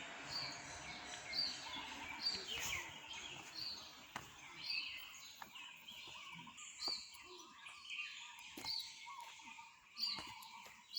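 Birds chirping: a short, high chirp repeats about once a second, with lower warbling notes in between.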